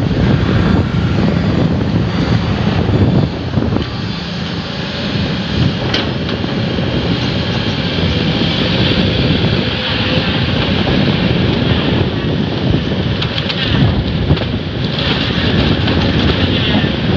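A heavy engine running steadily, its hum strongest in the first few seconds, with wind buffeting the microphone.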